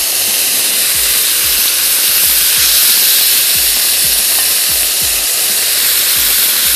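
Sauce-marinated boneless chicken pieces sizzling steadily as they sear on a hot ridged grill pan.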